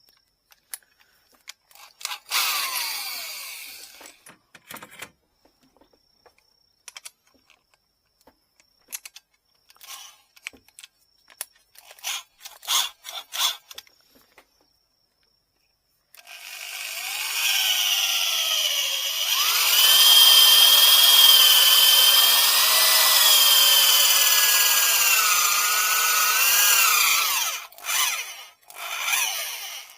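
Electric drill with a 7 mm bit boring out a node inside a bamboo rod section: the motor runs loud for about ten seconds, its pitch wavering under load. Before it come scattered clicks and scrapes of handling, and a few short knocks near the end.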